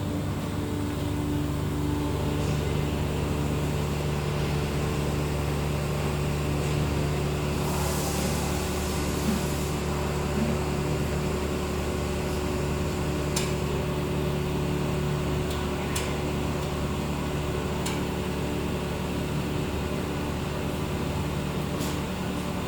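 Steady hum of a running electric motor, with a few light clicks about halfway through and near the end.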